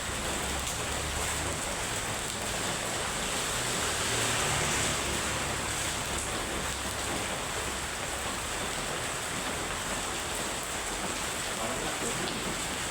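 Heavy rain falling steadily, an even hiss that swells a little about four seconds in.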